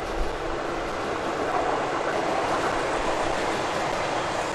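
Coaches of a narrow-gauge electric passenger train rolling past close by, a steady noise of wheels on rail. One brief knock sounds just after the start.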